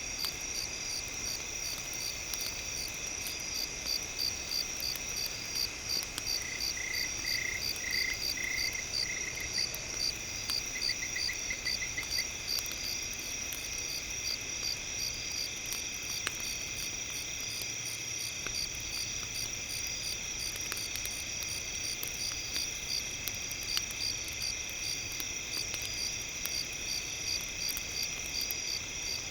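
Night-time outdoor ambience of a steady, dense chorus of crickets chirping in fast pulses, with a few faint campfire crackles. Another caller gives short pulsing trills twice, about seven and eleven seconds in.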